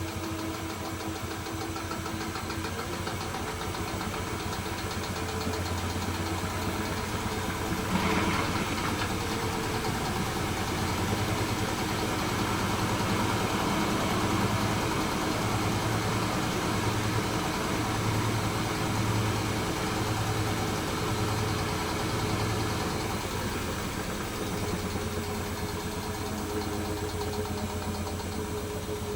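Hoover H-Wash 300 Plus washing machine spinning: a steady motor hum and drum rumble, with a single knock about eight seconds in and a pulsing low rumble through the middle.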